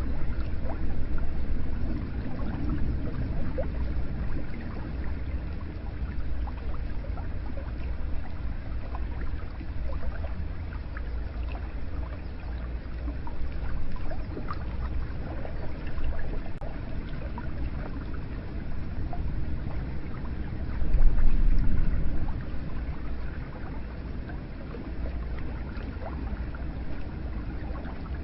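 Hot spring water running and splashing into a bath, a steady flowing sound with scattered small drips and a deep low rumble. It swells louder for a moment about three quarters of the way through.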